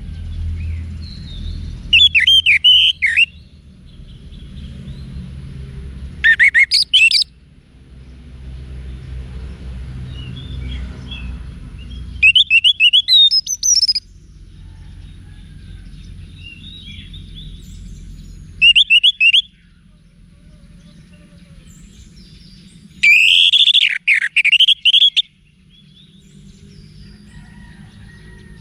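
Orange-headed thrush singing: five loud phrases of rapid, varied whistled notes, each a second or two long, separated by pauses of several seconds, with a low rumble in the gaps.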